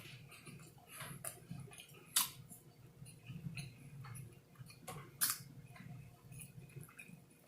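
A person chewing a mouthful of burger, with scattered soft mouth clicks and smacks.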